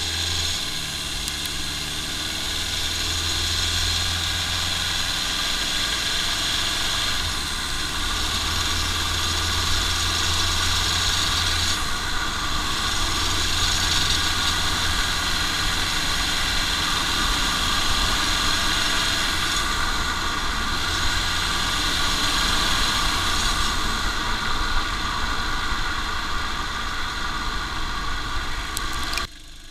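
Toyota Lucida's turbodiesel engine and road noise heard from under the moving car: a steady low engine drone that rises and falls a few times, over a hiss of tyres and passing air. The sound drops away suddenly near the end.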